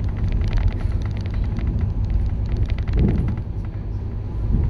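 Scania K230UB bus running, a steady low engine drone with many quick rattles and clicks over it, swelling briefly about three seconds in.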